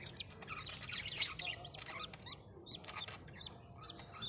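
Budgerigars chirping: many short, high chirps in quick succession.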